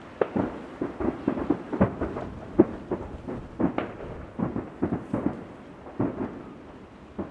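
Distant aerial firework shells bursting in a rapid, irregular barrage of dull booms, several a second at times, with a rolling rumble between them.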